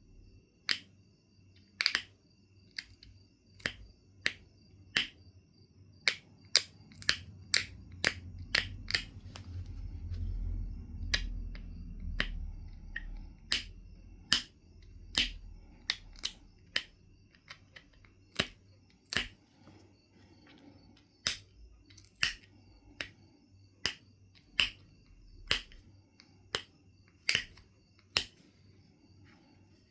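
Knife River flint being knapped: a series of sharp, irregular clicks and snaps as flakes come off the stone, roughly one to two a second. A low rumble swells in the middle and fades.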